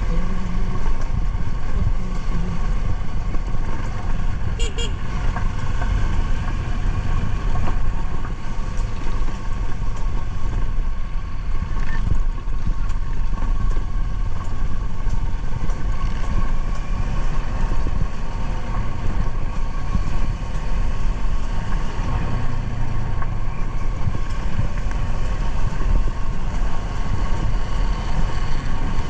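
Motorcycle riding along a forest road: engine running steadily under wind noise on the microphone, with a brief high-pitched toot about five seconds in.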